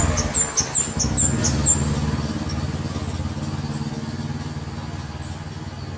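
A flowerpecker gives a quick run of sharp, high-pitched, down-slurred chip calls in the first two seconds, then fainter calls. Under it, the low hum of a passing motor vehicle fades away.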